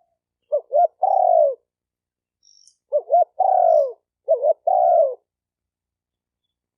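Spotted dove cooing: three phrases, each two short coos followed by a longer, falling coo.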